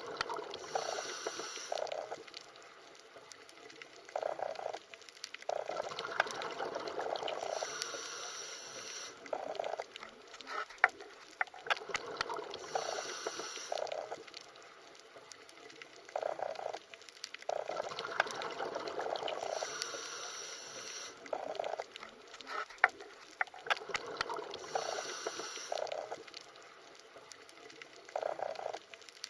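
Underwater ambience: bubbling, gurgling water with scattered sharp clicks, the same pattern coming round again about every six seconds as a repeating loop.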